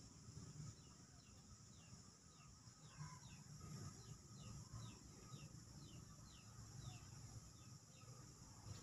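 Faint bird calling, a run of short falling chirps at about two a second, over a low, steady background.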